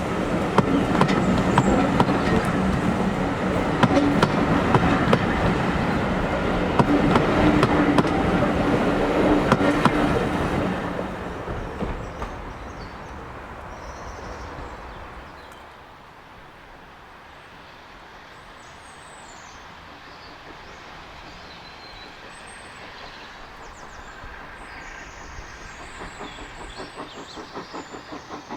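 Steam-hauled train passing close by, wheels clattering over the rail joints, loud for about ten seconds and then fading away. Faint high chirps follow, and a regular pulsing builds near the end.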